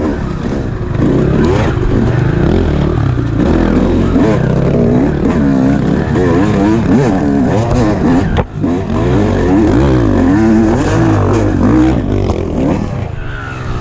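Dirt bike engines running hard on a trail ride, their revs repeatedly climbing and falling as the riders work through the throttle and gears. At times two engine notes cross each other. The sound dips sharply for a moment about eight and a half seconds in.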